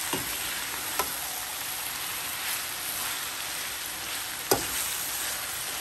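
Minced meat (keema) with green chillies sizzling and frying in a karahi while a perforated metal spoon stirs it. Short metal clinks sound as the spoon strikes the pan, about a second in and again later.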